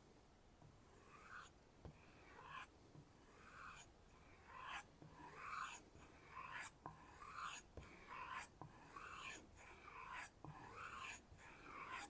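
Nakiri knife blade being stropped on a kangaroo tail leather strop: a dozen or so light, faint swishes of steel drawn across leather, about one a second.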